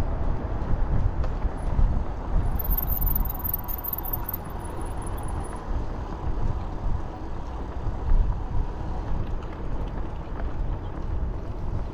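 Wind buffeting a cyclist's microphone while riding, with a steady low rumble. A faint high whine comes in a few seconds in and fades out after about three seconds.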